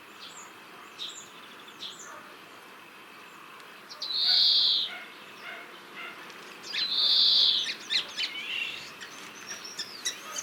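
European greenfinch calling: two drawn-out, wheezy buzzing notes, each about a second long, with short chirps between them and a quicker twitter toward the end.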